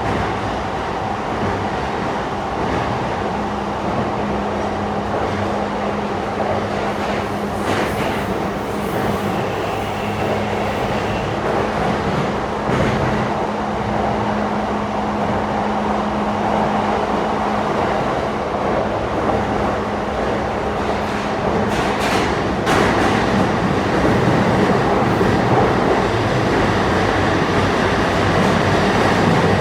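E235-1000 series electric train running through a tunnel: a continuous rumble of wheels on rail under a steady low hum, with a few sharp clicks along the way. The hum drops out about two-thirds through, and the running noise then grows slightly louder.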